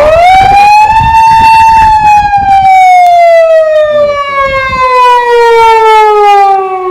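Fire engine siren wailing: one long, loud note that climbs in pitch over the first second, holds high for a moment, then slowly winds down over the next five seconds. Wind rumbles on the microphone underneath.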